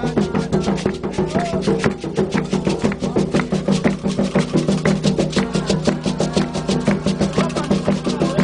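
Candomblé ritual percussion: hand drums and a struck bell or wood block playing a fast, dense rhythm, with faint singing voices underneath.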